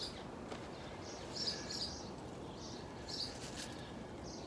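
Small birds chirping now and then, a few short high chirps spaced about a second apart, over a faint steady hiss of outdoor air.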